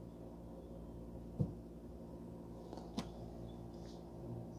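Two brief clicks about a second and a half apart over a steady low hum.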